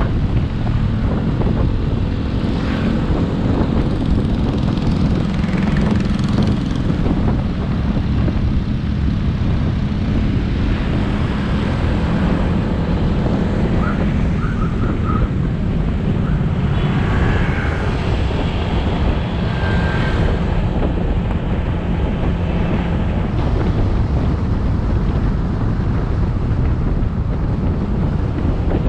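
Motorbike engine running under way, mixed with heavy wind buffeting on the microphone and road rumble.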